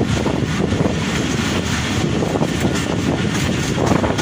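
Pakistan Railways railcar running at speed, heard from an open door: a steady rumble of wheels and engine with wind rushing over the microphone.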